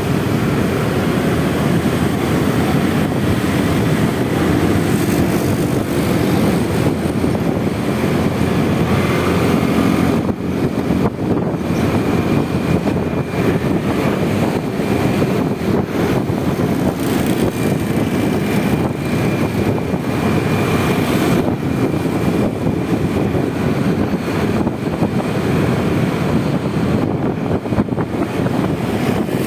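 Honda Vario 125 scooter's single-cylinder engine running while riding, heard on board together with rushing wind and road noise, steady throughout with a few brief dips.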